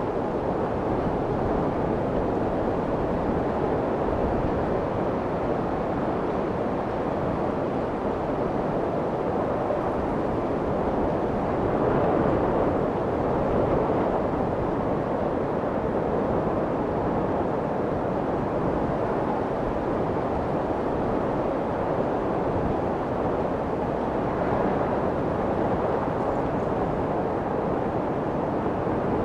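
Steady, muffled white noise for soothing a baby to sleep, a constant rushing shush meant to imitate the sound of the womb. It swells slightly twice.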